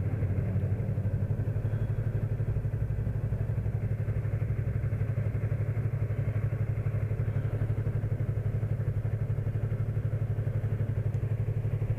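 Yamaha MT-03 motorcycle engine running steadily on the move, a low drone with a fast, even pulse.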